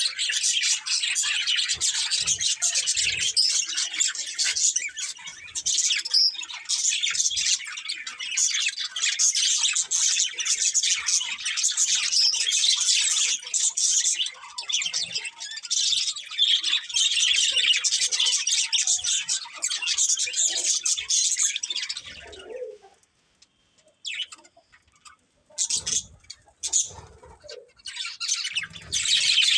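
Several budgerigars chirping and chattering in a dense, continuous stream of rapid high chirps. About three quarters of the way through the chatter stops for a few seconds, with only a few scattered sounds, then starts again near the end.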